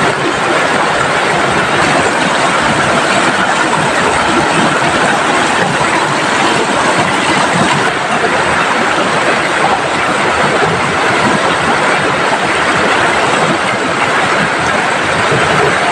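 Heavy rain pouring down, together with the rushing of a swollen, fast-flowing river: a loud, steady, dense rushing noise with no let-up.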